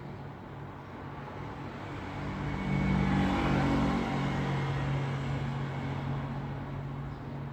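Road traffic: steady vehicle rumble with a low engine hum, swelling as a vehicle passes close about three seconds in, then settling back with an engine tone holding on.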